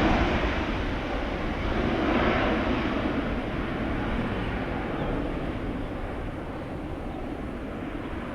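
Jet airliner's engine noise, a broad rushing roar that is loudest at the start and slowly fades as the aircraft moves away.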